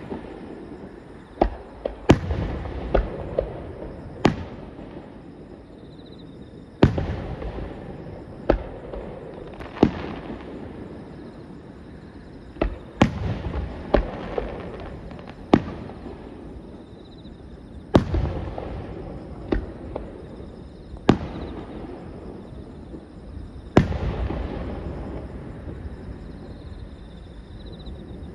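Large fireworks bursting: a loud sharp bang every one to three seconds at uneven intervals, each trailing off in a rumbling echo.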